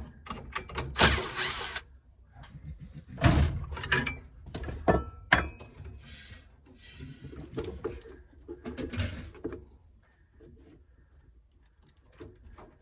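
Scattered knocks, clicks and scraping from hands-on repair work with tools and materials, busiest in the first few seconds and fading to light rubbing near the end.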